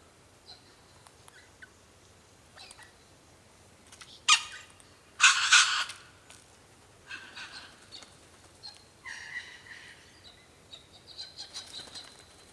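Wild birds calling in short, separate calls. The loudest two come about four and five seconds in, followed by softer calls and chirps.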